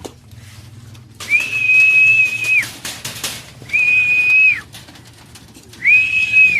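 Three long, steady, high-pitched whistles, each rising at the start and falling away at the end, blown to call pigeons down to the loft. The first is the longest; the last is cut off.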